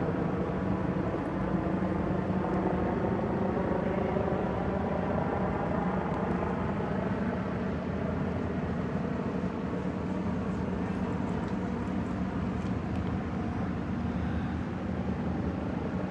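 Medical helicopter running steadily on the ground, its engine and rotor making an even, unbroken drone.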